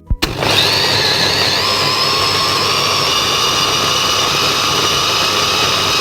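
Electric blender switching on about a quarter second in, its motor spinning up with a rising whine and then running steadily and loud while it blends chopped onion, garlic and tomatoes.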